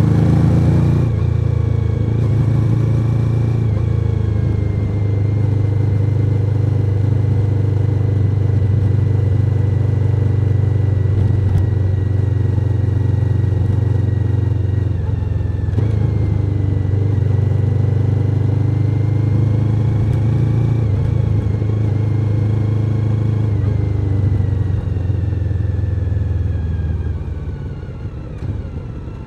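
Suzuki SV1000N's 90-degree V-twin engine running steadily while riding, with a faint high whine that dips and rises. The engine gets quieter near the end.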